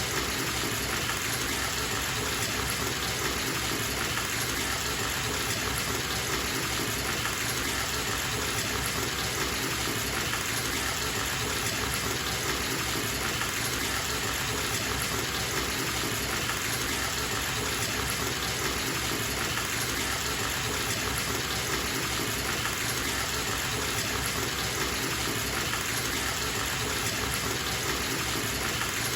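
Bathtub faucet running, water pouring steadily into the tub.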